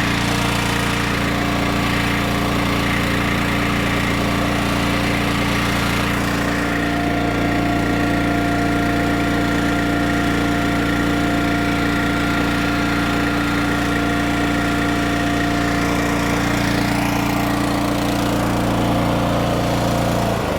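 Small gasoline engine of a hydraulic log splitter running steadily at a constant speed.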